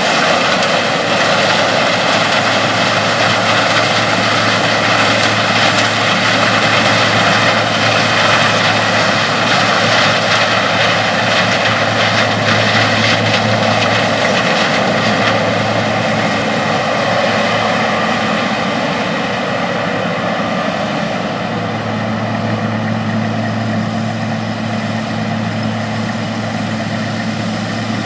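Combine harvester running steadily in a cornfield: a constant drone with a steady pitched whine over broad machine noise, easing slightly in level in the last few seconds.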